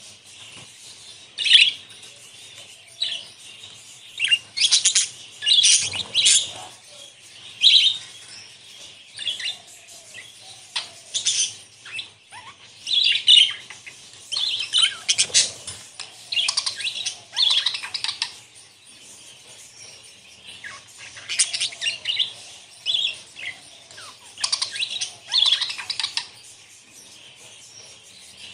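A flock of budgerigars chattering and chirping: many short, high-pitched warbling calls and squawks in irregular bursts, overlapping.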